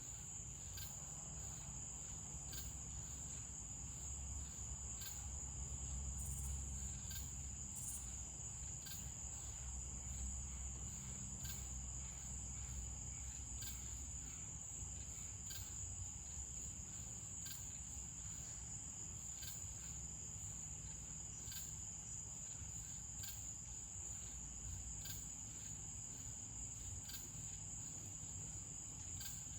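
Crickets chirping: a steady high trill with a regular pulse about once a second.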